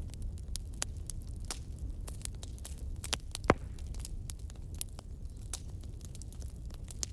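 Wood bonfire crackling, with irregular sharp pops and one louder pop about halfway through, over a low steady rumble.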